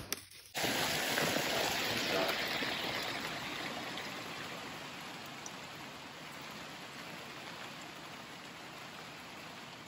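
Steady rain falling outside, a continuous hiss that slowly fades after the first couple of seconds.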